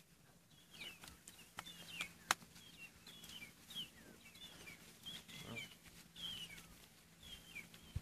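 Birds chirping in the background: a steady string of short high chirps about twice a second, with a few faint clicks.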